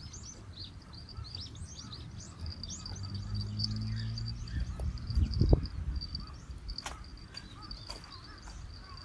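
Small birds chirping in quick repeated calls over a steady high insect drone. A low hum swells in the middle, and a single dull thump comes about five and a half seconds in.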